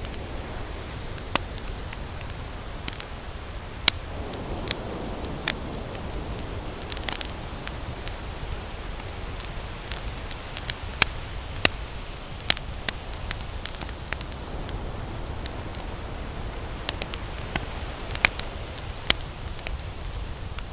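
Wood campfire crackling, with irregular sharp pops a few times a second over a steady rushing noise.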